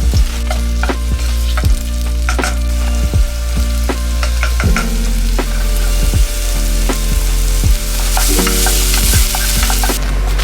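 Food frying and sizzling in a pan, with a hiss that grows louder near the end, over background music with a bass line and a steady beat.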